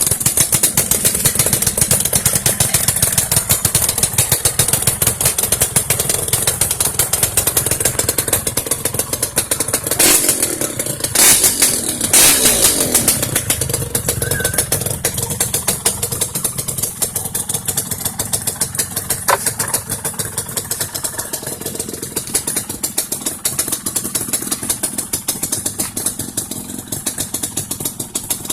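Yamaha RX-King two-stroke single-cylinder engine idling through a hollowed-out free-flow exhaust with a fast, rattly popping beat. A little after ten seconds in it is blipped up a couple of times, then the revs fall back to a steady idle.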